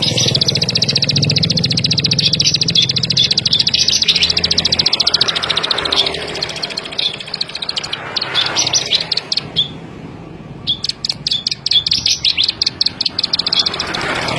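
Ciblek sawah (ciblek padi), a small rice-field songbird of the prinia family, singing a rapid, high clicking trill. A long continuous run gives way to shorter bursts, with a brief pause about ten seconds in before it resumes.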